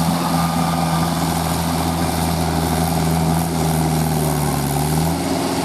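Tractor diesel engine running steadily, its pitch sagging slightly near the end.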